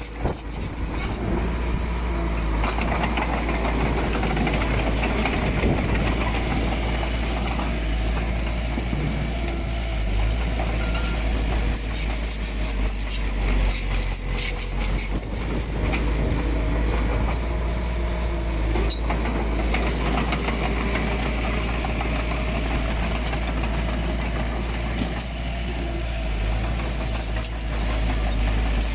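Komatsu D20P bulldozer's diesel engine running steadily while working, with bursts of metallic clatter around the middle and near the end.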